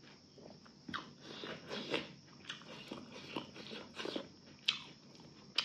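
Close-up mouth sounds of a person eating a rice-and-curry meal by hand: chewing with irregular wet smacks and clicks, several a second.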